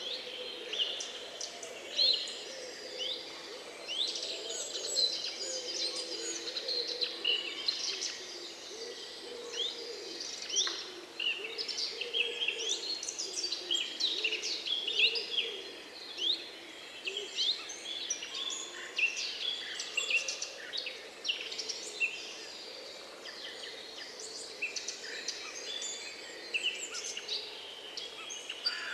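Dawn-chorus style mix of several songbirds singing at once, with many quick overlapping chirps, whistles and trills, over a low steady hum of background noise.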